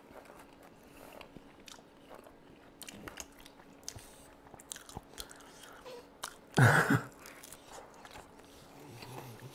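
Close-miked chewing of crispy fried chicken wings: soft crunches and wet mouth clicks. About two-thirds of the way in, the eater makes one short voiced sound, the loudest thing in the stretch.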